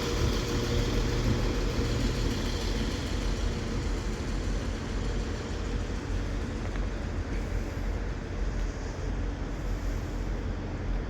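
Diesel multiple-unit engines rumbling steadily at low revs as a Northern class 195 diesel unit pulls slowly into the platform, with other diesel units idling. The sound eases off slightly over the stretch.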